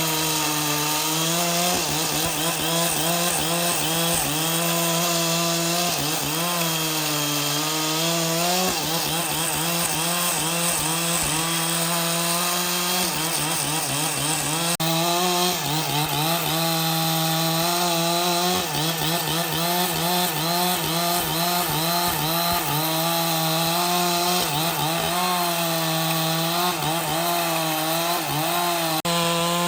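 Chainsaw running continuously while cutting through wood. Its engine note sags and recovers again and again as the bar bites into the timber.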